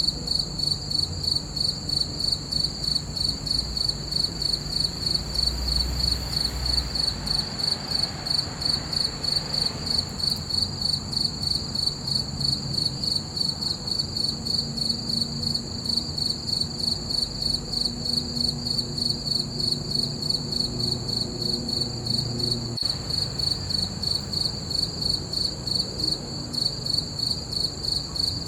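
Crickets chirping in a steady, evenly pulsed high trill that goes on throughout, about three chirps a second.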